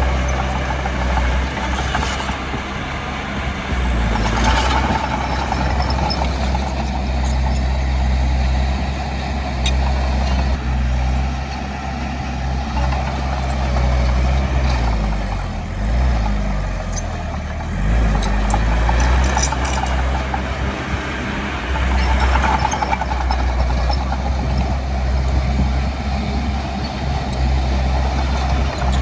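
Heavy diesel earthmoving machinery running steadily under load, its low engine note briefly dipping and rising about halfway through, with scattered metallic knocks.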